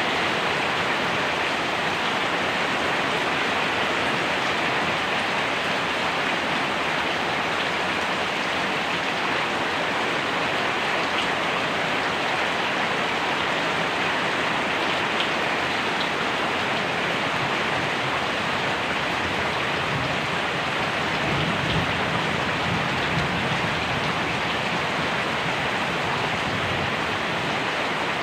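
Steady rain falling, a dense, even hiss of drops on a surface.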